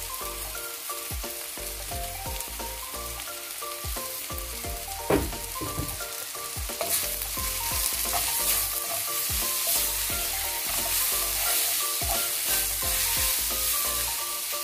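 Onions, ginger and garlic frying in oil in a black wok, sizzling as a wooden spatula stirs and scrapes through them. A sharp knock of the spatula on the pan comes about five seconds in, and the sizzle grows louder in the second half as the stirring gets going.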